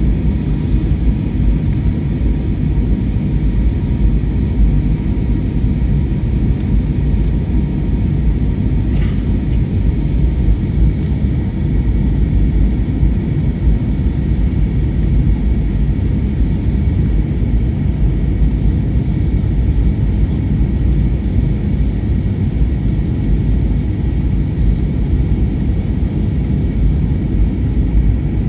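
Steady low cabin rumble of an Airbus A321neo airliner heard from inside the passenger cabin, with faint steady whining tones above it.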